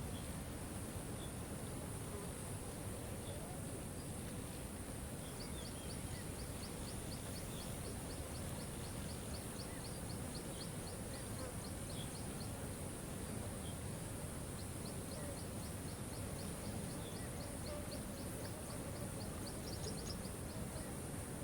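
Waterfall rushing steadily, with a rapid high chirping trill of about five notes a second running in two spells of several seconds each, and a few scattered single high calls.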